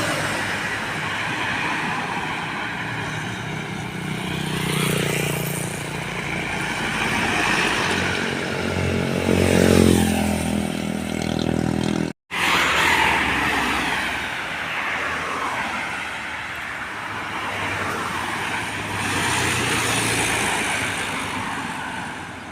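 Road traffic with heavy trucks and other vehicles passing. About nine to ten seconds in, one engine's pitch rises as it accelerates, and the sound cuts out for a split second near the middle.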